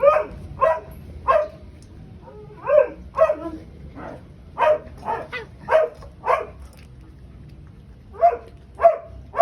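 A dog barking repeatedly: about a dozen short barks in uneven clusters of two to five, with brief pauses between the clusters.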